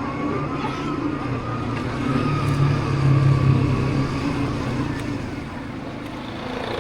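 Motorbike engine running steadily while riding along a road, with road and wind noise; it eases briefly near the end.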